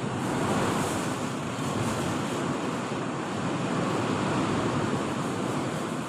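Violent storm wind blowing hard, a loud continuous rushing that swells and eases slightly.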